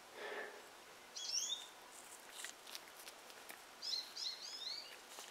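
Small birds chirping in the background: a short run of quick high chirps about a second in and another about four seconds in, with a few faint light clicks between them.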